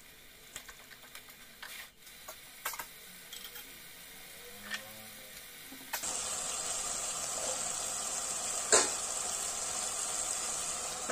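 A steel ladle mashing and stirring tomato masala in a steel kadai, with soft scrapes and small taps. About six seconds in, a steady sizzle of the masala frying in mustard oil takes over, with one louder pop near the nine-second mark; the masala has reached the stage where the oil separates from it.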